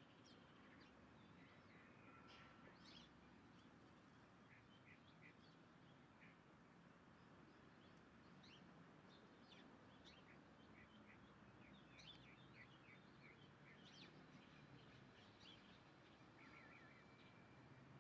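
Faint chirping of small birds: many short, separate calls scattered throughout, over a low background hum.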